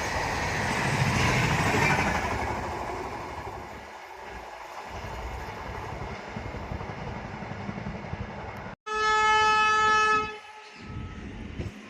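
A train passes with rushing wheel-and-rail noise that is loudest in the first two seconds and then fades to a lower rumble. After a brief break, a train horn sounds one steady blast of about a second and a half, well above the rumble.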